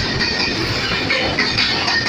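Covered goods wagons of a freight train rolling past close by at speed: a steady, loud rumble and rattle of steel wheels on the rails, with the odd sharp clack from the track.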